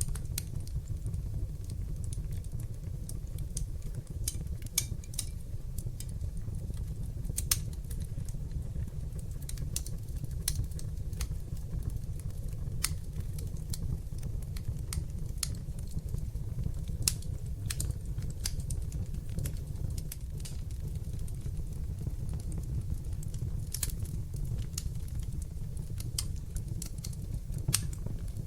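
Fireplace fire burning with a steady low rumble of flames and irregular sharp crackles and pops scattered throughout.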